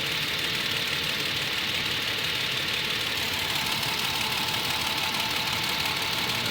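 2011 Toyota Tacoma engine idling warm with a steady ticking from the driver's side of the engine, which the owner takes for a bad valve or lifter; the dealer calls it normal.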